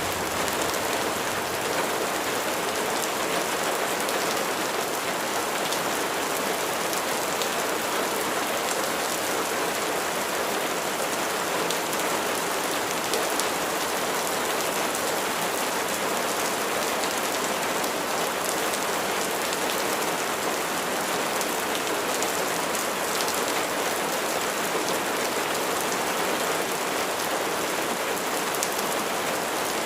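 Steady rain falling, an even hiss of rain on a surface with scattered drops.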